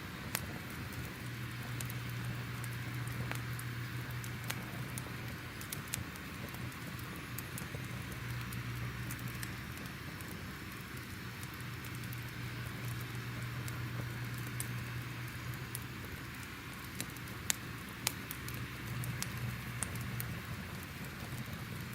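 Crackling wood fire: a steady hiss and low rumble with scattered sharp pops and crackles.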